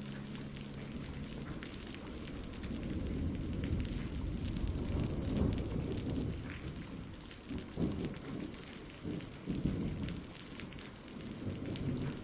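Steady rainfall with low rolling thunder rumbling through the middle. The last held notes of a song fade out in the first second or so.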